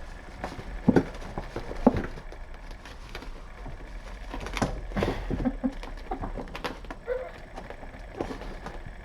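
Kittens scampering and playing, with scattered knocks and rustling and two sharp knocks about one and two seconds in.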